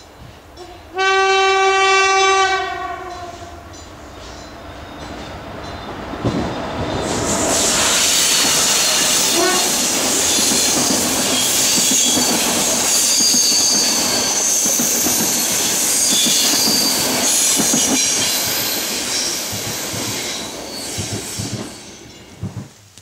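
A train horn sounds one steady note for about two seconds. A locomotive-hauled passenger train then approaches and runs past, its wheels sounding on the rails with high-pitched wheel squeal, and fades away near the end.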